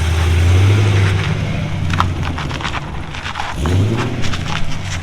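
LS2 V8 swapped into a Nissan 350Z, heard through its new custom exhaust: the engine is blipped up twice, about three and a half seconds apart. Sharp crackles and pops sound in between as the revs fall.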